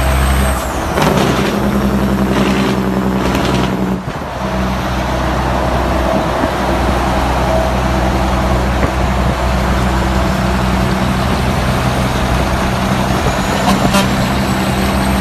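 Truck engine running steadily with a loud low drone, briefly dipping about four seconds in.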